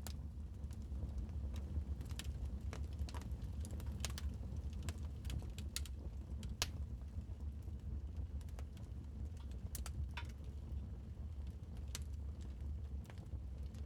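Wood fire crackling: irregular sharp pops and snaps, the loudest a little after six seconds in, over a steady low rumble.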